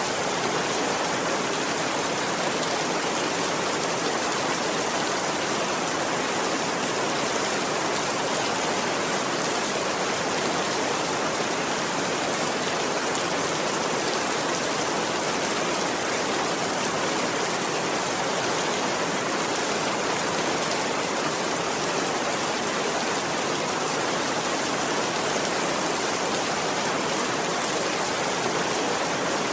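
Steady, even rainfall, a constant hiss of drops that does not change.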